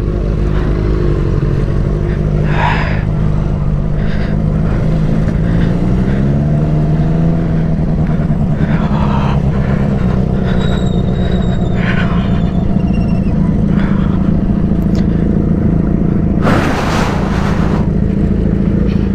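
Benelli motorcycle engine running while riding, rising in pitch as it accelerates about six seconds in and then holding steady, with road and wind noise. A short rush of noise comes near the end.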